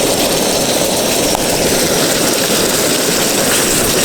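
MSR WindPro II canister stove burner running with a steady roar, its fuel canister turned upside down to feed liquid fuel.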